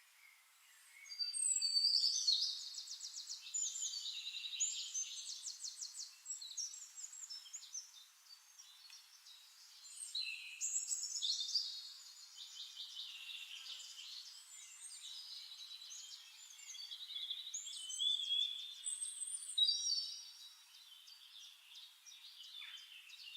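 Small birds singing: rapid high trills and chirping phrases, one after another with short lulls, starting about a second in.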